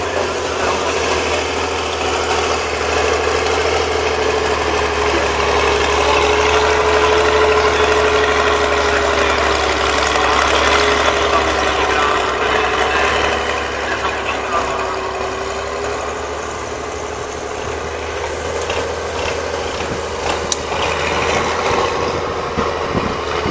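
Diesel truck engine running steadily, its pitch wavering slightly up and down as the revs change a little.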